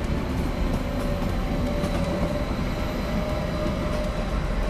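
SBB double-deck passenger train running past on the rails: a steady rumble of wheels and running gear, with a faint thin whine over it.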